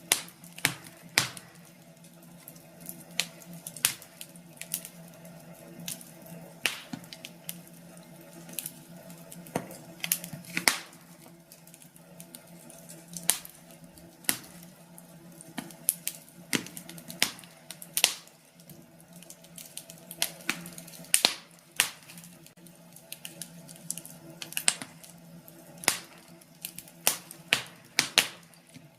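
Wood fire burning in an Invicta 900 Grand Vision fireplace, crackling with irregular sharp pops, one or two a second, over a faint steady hum.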